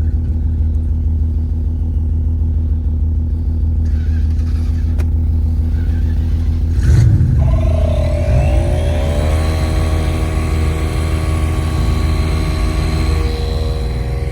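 A vehicle engine idling steadily. About seven seconds in there is a clunk, then the engine revs up, its pitch climbing and levelling off as the vehicle pulls away under power.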